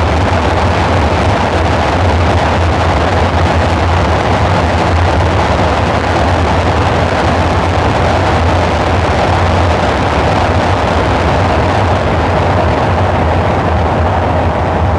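Dark ambient synthesizer drone: a steady, loud low hum under a dense wash of noise, unchanging throughout.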